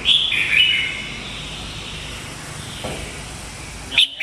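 Red-whiskered bulbul singing: a quick warbled phrase in the first second, then another short burst of notes near the end, over a low steady background rumble.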